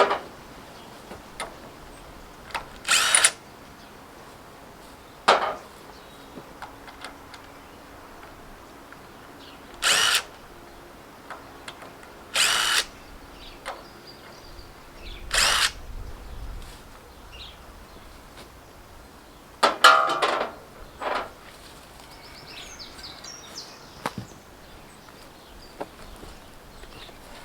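A handheld power tool, drill-like, run in about seven short bursts of half a second to a second each, the longest and loudest about twenty seconds in, as wheel nuts are worked on.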